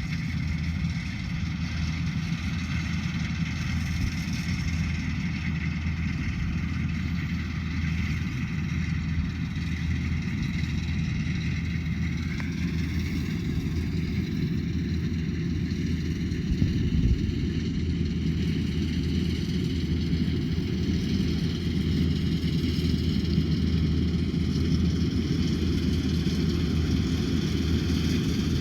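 Rice combine harvester running steadily under load: a low engine drone with a steady high-pitched whine over it, the whine shifting slightly in pitch about halfway through.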